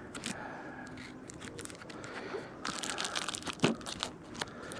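Crinkling and rustling handling noises with scattered sharp clicks, one louder click about three and a half seconds in, as hands tighten and tuck material around a beehive.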